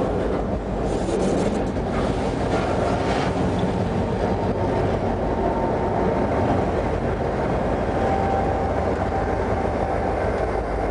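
Freight train rolling past at close range: a steady, loud rumble of steel wheels on rail, with a few clicks from the wheels in the first three seconds. A diesel locomotive passes in the second half.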